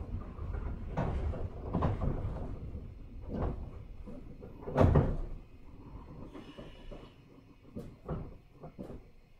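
JR 103 series 1500 electric train drawing to a stop: the low running rumble dies away over the first five seconds amid a series of clunks, the loudest about five seconds in. A short hiss of air and a few light knocks follow once it is still.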